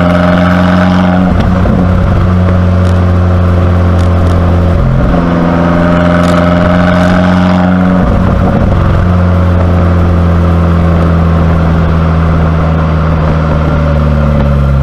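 2019 Abarth 595C Competizione's turbocharged 1.4-litre four-cylinder through a Record Monza exhaust, running loud at a fairly steady pitch, with short breaks in the note about a second in, near five seconds and near eight and a half seconds, and the pitch sinking a little near the end.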